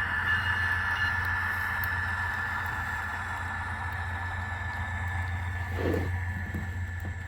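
Model train running on the track: a steady low hum with a high whine and rolling noise from the wheels, plus a brief sound about six seconds in.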